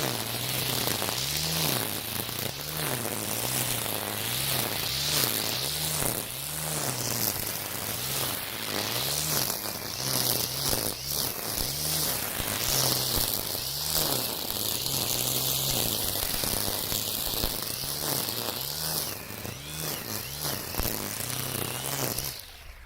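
Battery-powered Makita 40V split-system trimmer running at speed, its Oregon Flexiblade trimmer line thrashing through dense weeds. The motor hum wavers about once a second as it is swung, and it cuts off just before the end.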